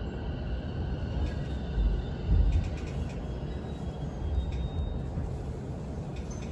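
Interior of a Chuo Line electric commuter train rolling slowly to a stop at a platform: a low rumble, with a heavier low thump a little over two seconds in and a few faint clicks.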